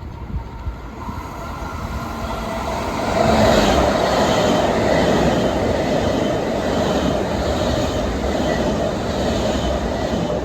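Long Island Rail Road train running past on the tracks, growing louder over the first three seconds and then holding a steady loud rush of wheels on rail.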